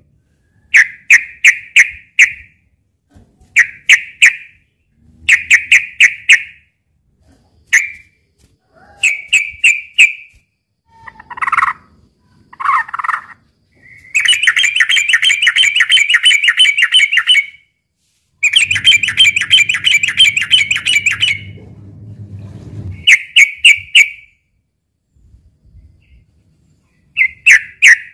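Yellow-vented bulbul (trucukan) singing. It gives short bubbly phrases of two to four notes every second or so, and in the middle two long, fast chattering runs of several seconds each. A low hum sounds under the second run.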